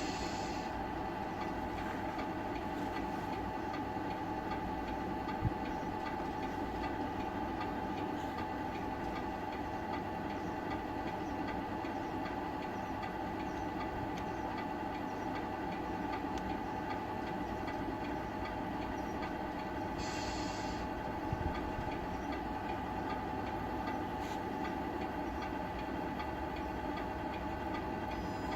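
Tamiya radio-controlled model trucks running: a steady whine and rattle from their electric motors and gearboxes, with a couple of sharp clicks.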